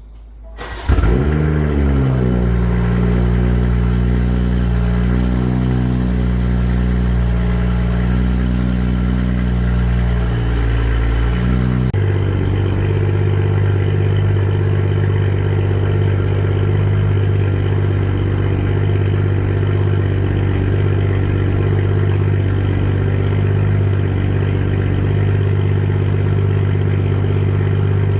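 BMW M440i's B58 turbocharged 3.0-litre inline-six cold-starting: the starter cranks briefly, the engine catches and flares, then settles into a loud, steady high cold-start idle through the exhaust. About twelve seconds in the sound jumps abruptly to a steadier idle note.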